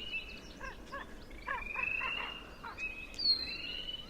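Spring peepers calling from a pond, rising whistled peeps repeating about every second and a half over a chorus, with common ravens croaking in the background.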